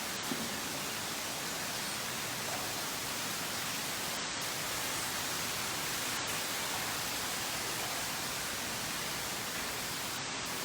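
Steady, even rush of falling water from an indoor waterfall.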